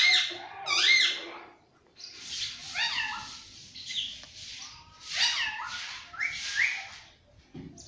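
Pet parrot calling and chattering in several bouts of short, high, sliding calls with brief pauses between them.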